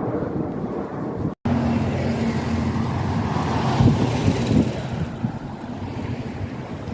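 Street traffic: a motor vehicle drives past close by, loudest about four seconds in, over a steady engine hum. The sound drops out for an instant about a second and a half in.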